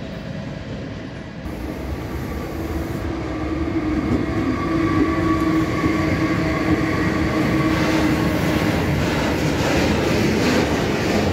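Freight train passing close, growing louder over the first few seconds: a pair of electric locomotives goes by with a steady whine. From about eight seconds in comes the rolling rumble and clatter of a long string of loaded open hopper wagons.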